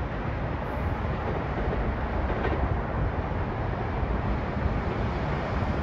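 Train running past with a steady, dense rumbling noise.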